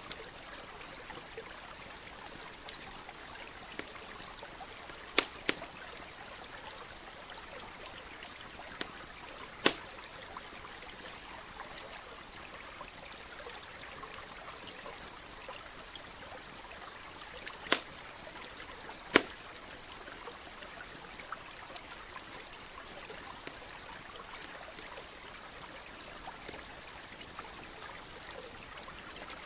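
Campfire crackling with scattered small clicks and a few sharp, loud pops, over the steady trickle of a stream.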